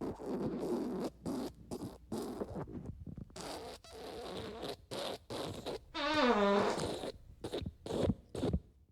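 Fart sound effects: a string of short, sputtering farts with brief gaps between them. About six seconds in comes one longer fart with a clear pitch that falls.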